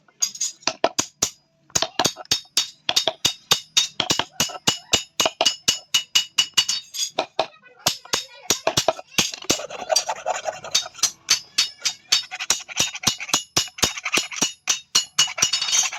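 Hand hammer blows on metal, about four a second, each strike ringing, with a short pause about seven seconds in.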